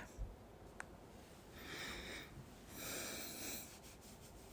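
A man breathing slowly and softly close to the microphone: two airy breaths about a second apart, each lasting under a second.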